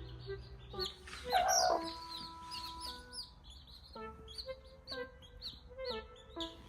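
A hen clucks loudly once, about a second in, over repeated high peeping and background music with long held notes.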